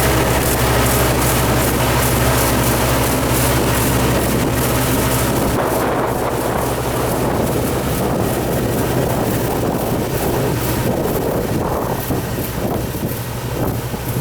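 A farm machine's engine running steadily with wind buffeting the microphone. The low engine hum is strong for the first five or six seconds, then drops away, leaving mostly wind and a rougher rumble.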